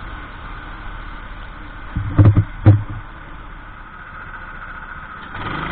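Kart engine idling steadily, with two loud knocks about two seconds in.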